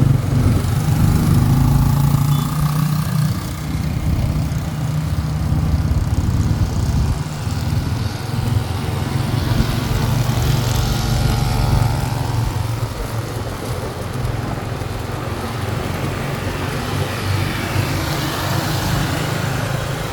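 Motorcycle engine running steadily while riding, with a hiss of wind and road noise. A faint higher whine comes and goes about halfway through.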